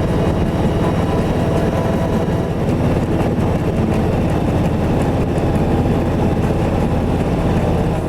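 Kawasaki Vulcan Voyager motorcycle engine running at a steady, even speed, a low pulsing exhaust note.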